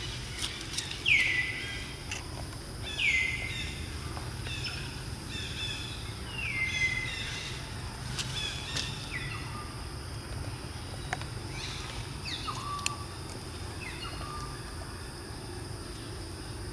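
Forest ambience with a bird calling repeatedly: short whistles that each slide quickly downward and level off, the later ones lower in pitch. A steady high drone runs under them.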